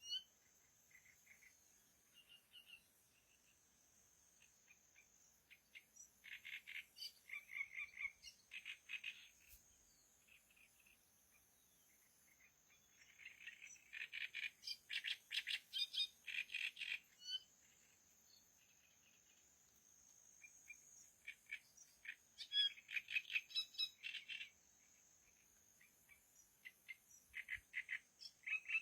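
A small bird singing outdoors in bursts of rapid high chirps, each run lasting a few seconds with quiet gaps between.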